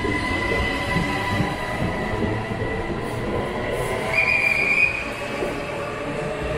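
SNCB/NMBS electric train running past along an underground platform: a steady rumble of wheels on rail with a high whine that fades out partway through. About four seconds in comes a brief high metallic squeal, the loudest moment.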